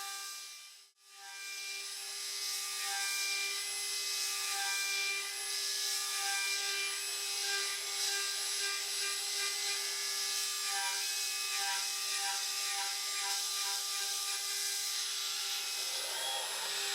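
CNC router spindle driving a 6 mm three-flute end mill through an aluminium pocket on an adaptive toolpath: a steady cutting whine with a constant tone and high ringing overtones. The sound drops out briefly about a second in, then carries on.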